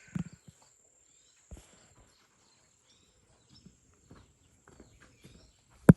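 Hand hoe working the soil: mostly faint scuffs and ticks, a soft thud about a second and a half in, and one sharp strike of the blade into the ground near the end.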